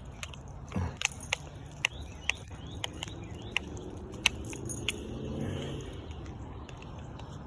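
Irregular small sharp clicks and ticks, about a dozen scattered through, over a steady low rumble.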